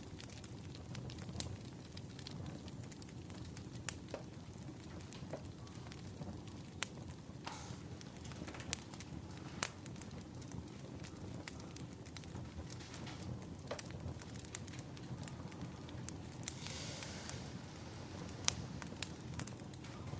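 Wood fire crackling: irregular sharp pops and snaps over a steady low rumble, with a brief hiss about three-quarters of the way through.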